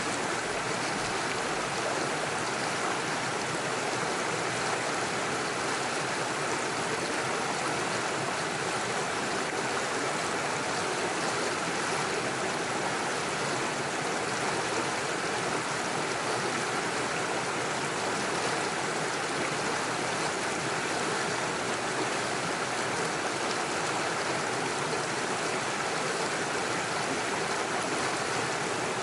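Small stream running over stones, a steady, even rush of water with no change.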